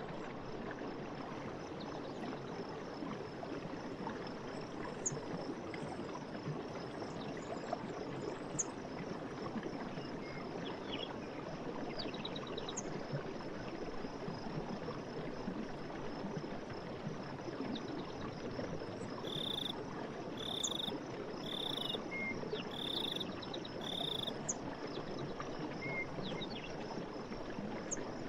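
Forest stream: water running steadily, with a faint high insect-like drone and scattered bird chirps. In the second half, five short, evenly spaced calls sound about a second apart.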